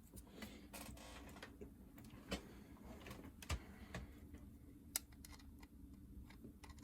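Faint, irregular clicks and taps from small electronic parts being handled, over a low steady hum.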